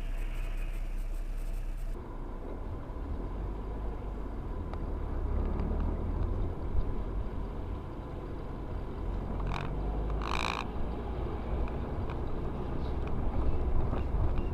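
Steady low rumble of a car's engine and tyres while driving. Two short high-pitched tones come about ten seconds in.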